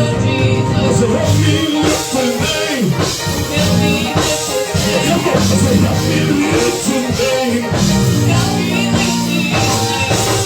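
Live church band playing an upbeat praise break, a drum kit keeping a steady beat.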